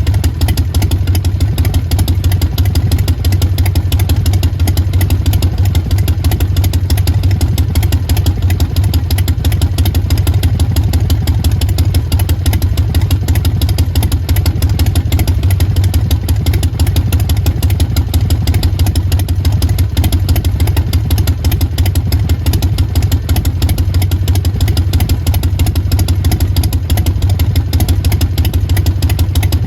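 Harley-Davidson Sportster XL1200X Forty-Eight's air-cooled 1200 cc V-twin idling steadily through a Vance & Hines Big Radius exhaust, with the loping three-beat ("sanbyoshi") idle rhythm.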